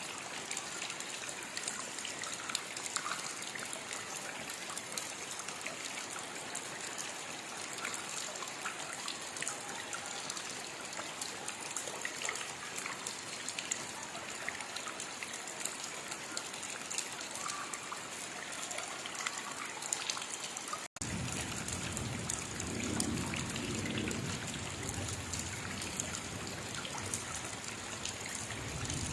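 Steady rainfall, an even hiss of rain dotted with many small drop ticks. About 21 seconds in it cuts out for an instant and resumes with a deeper rumble underneath.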